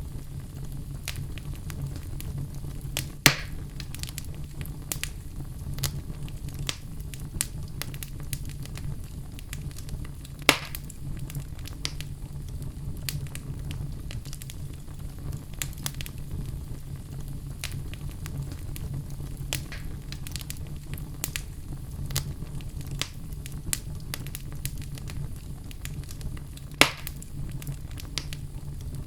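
Fireplace fire crackling: a steady low sound of the burning fire under frequent small snaps, with three louder pops, about three seconds in, about ten seconds in, and near the end.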